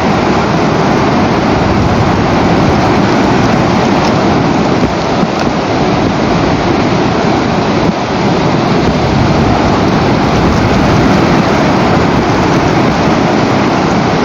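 Loud, steady rushing noise from the nest camera's outdoor microphone, even and unbroken, with no bird calls standing out.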